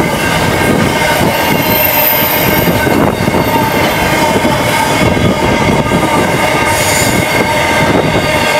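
Freight train's container wagons rolling past close by, steel wheels running on the rails with a steady squeal and occasional clacks.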